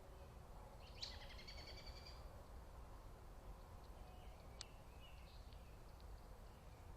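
A backyard bird gives one harsh, buzzy call about a second in, lasting about a second, followed by a few faint chirps and a single sharp click in the middle.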